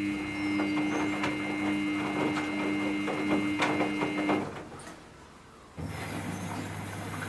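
Samsung front-load washing machine working: a steady motor hum with repeated clicks and knocks for about four seconds, which then stops. About six seconds in, a steady rush of water starts suddenly as the machine begins taking in water.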